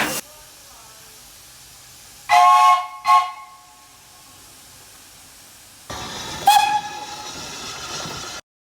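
Steam locomotive whistle sounding several notes at once: a blast of under a second followed by a short toot. Then comes steady steam hissing with another brief whistle blast, cut off suddenly near the end.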